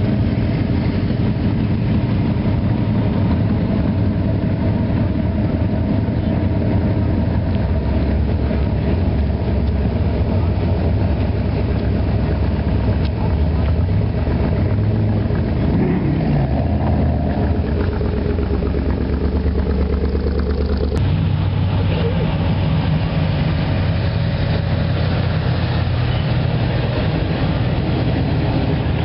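Hot-rod engines idling with a deep, steady pulsing note as cars roll past one after another at walking pace. One engine briefly revs up and back down about sixteen seconds in, and the engine sound changes abruptly about twenty seconds in.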